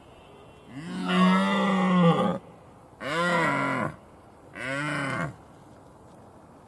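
A large hoofed animal calling three times, deep lowing calls that rise and then fall in pitch; the first lasts well over a second and the next two are shorter.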